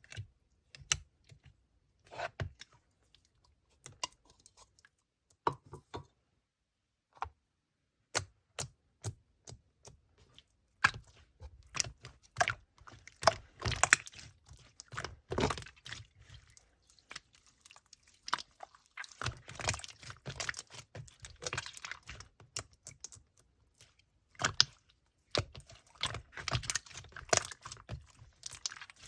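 Hands playing with slime: sticky clicks and small crackling pops, scattered at first and then in dense runs.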